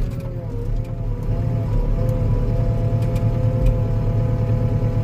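Skid steer engine running steadily with a steady whine over its low rumble, as the machine and its grapple work the ground.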